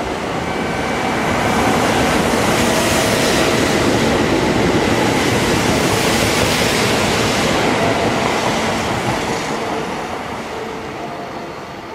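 Kintetsu limited express electric train running through a station without stopping: wheels rumbling and clattering on the rails. The sound swells over the first two seconds, stays loud, and fades over the last few seconds.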